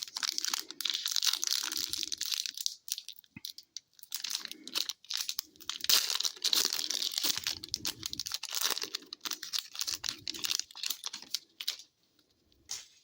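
A hockey card pack wrapper being torn open and crinkled by hand, in two long stretches of crackling with a short pause about three seconds in; the crackling stops about a second before the end.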